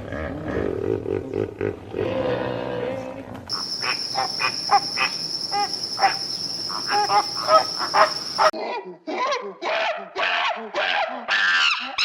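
Animal sounds in three clips: a low rumbling call for the first few seconds, then a steady high whine with short chirps, then from about eight seconds a run of short, harsh calls one after another.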